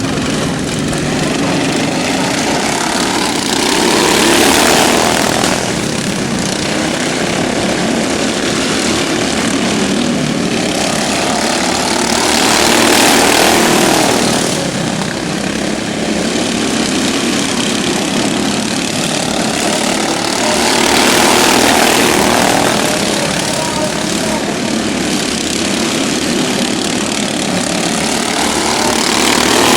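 Modified racing lawn mowers running laps on an oval track, their engines swelling loudly as the pack passes about every eight to nine seconds, then fading as it goes round.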